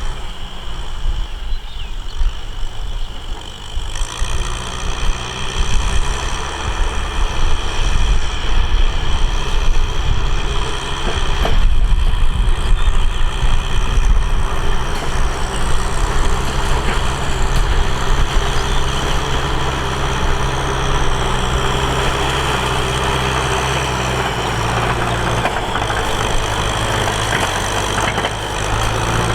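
Tractor engine running steadily under work, growing louder about four seconds in and again near the middle, with one sharp knock near the middle.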